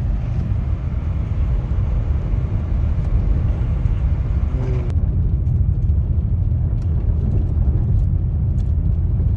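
Steady low rumble of a car driving slowly on a snow-covered road, heard from inside the cabin: engine and tyre noise.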